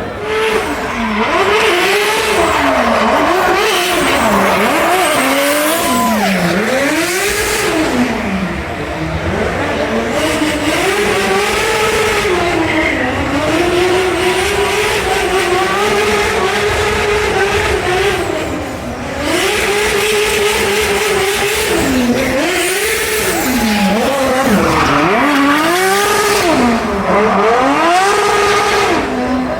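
Car engine revved hard and let off again and again, its pitch rising and falling every second or two, with tires squealing at times, as when a car is being drifted.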